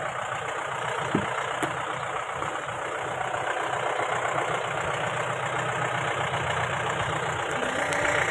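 Mahindra Bolero's engine running steadily over rough driving noise, with a sharp knock just over a second in and a lighter one soon after.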